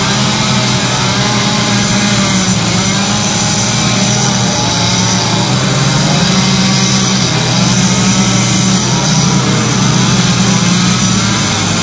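Chainsaw engine running steadily at speed, a loud unbroken drone during quick carving.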